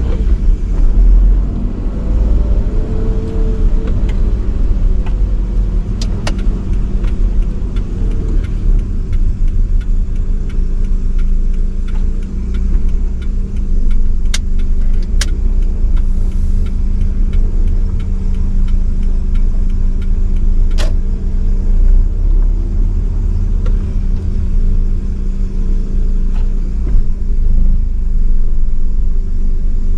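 1985 Nissan Sunny B12 on the move: steady engine hum and low road rumble, the engine note bending slightly up and down a couple of times. A few sharp isolated clicks or knocks stand out.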